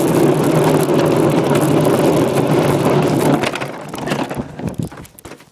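Mini motorbike running down a hill: a loud, rough rattling rush with wind buffeting the handheld microphone and a steady low hum beneath. It dies away about three and a half seconds in as the ride comes to a stop.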